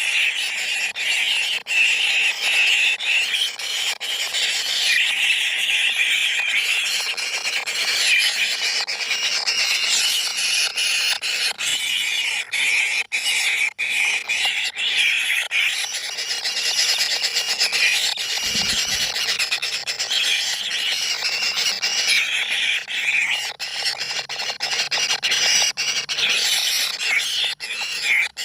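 Continuous high-pitched squealing, sustained with small fluctuations throughout.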